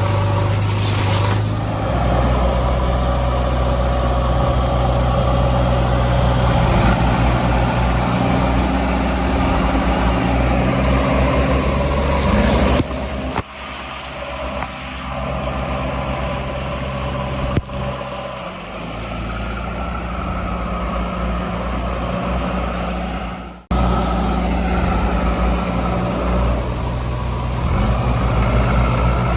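Heavy diesel engine idling steadily, with a low, even hum; the sound drops quieter for about ten seconds in the middle, then comes back at full level.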